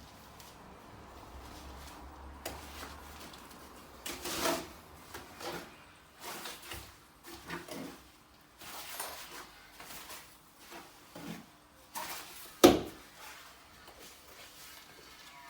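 Irregular knocks and scrapes of hand work with tools and stone pieces, one sharp, loud knock near the end.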